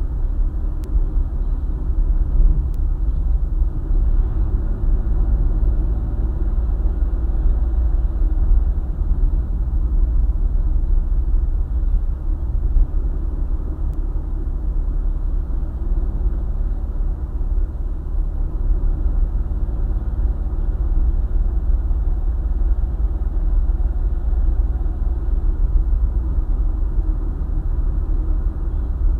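A car driving along a highway: steady low road rumble with the engine's hum underneath.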